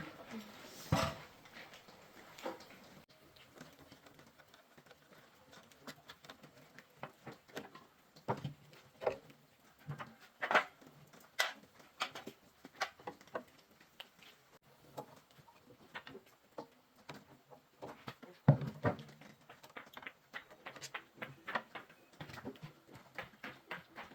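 Scattered light taps and clicks at an irregular pace, busier in the second half, with one heavier knock a little past the middle.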